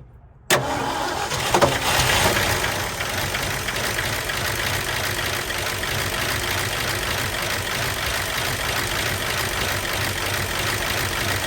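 Old truck's engine firing up about half a second in, running louder for the first couple of seconds, then settling into a steady idle. It fires right up on a freshly fitted fuel pump drawing from a fuel jug.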